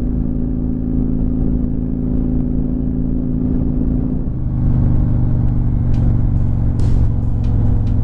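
V-twin cruiser motorcycle engine running on the road at a steady speed. Its note changes about halfway through and it gets slightly louder, with a few sharp ticks near the end.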